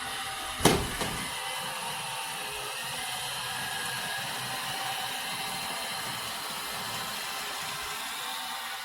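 Robot vacuum running with a steady whine and hum, with one sharp knock a little under a second in.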